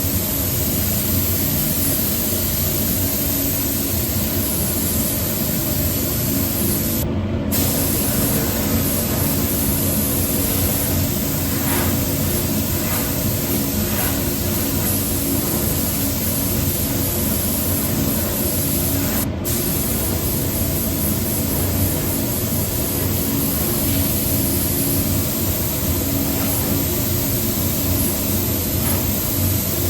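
Paint spray gun hissing steadily as paint is sprayed into the mould, over a steady low hum. The hiss cuts out briefly twice, about seven seconds in and again near the middle.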